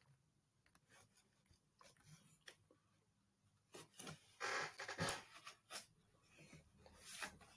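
Near silence with room tone, broken in the second half by a scatter of faint, brief indistinct noises.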